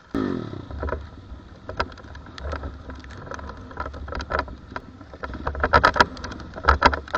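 A 110cc pit bike engine running under a low rumble, overlaid by a rapid series of sharp clicks and knocks that come thickest near the end.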